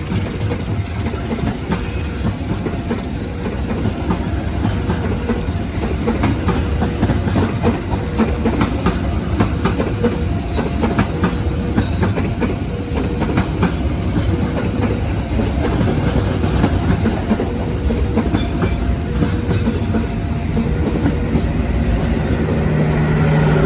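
A train passing close by: a steady heavy rumble with its wheels clicking rapidly over the rail joints.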